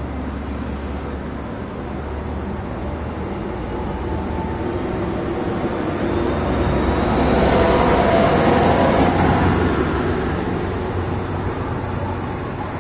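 Greater Anglia Class 755 bi-mode units: one standing at the platform with its diesel engines running in a steady low hum, while a second runs in alongside on the other track. Its engine and wheel noise swells to a peak about eight seconds in and then eases off.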